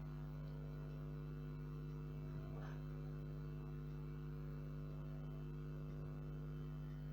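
Steady low electrical hum made of several even tones, with a faint brief rustle about two and a half seconds in.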